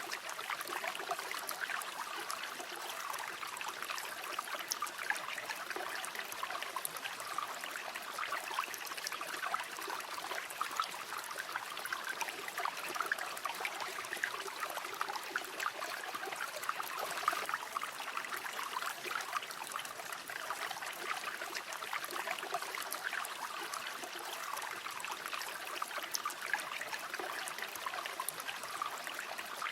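River water flowing steadily, a continuous babbling of small splashes and trickles over a shallow stream.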